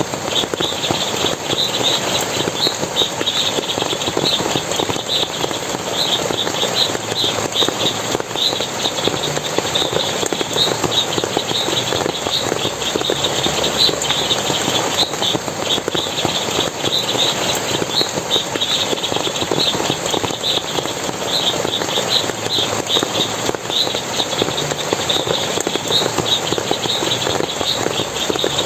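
Forest water running and splashing steadily, with short high chirps repeating about twice a second over it.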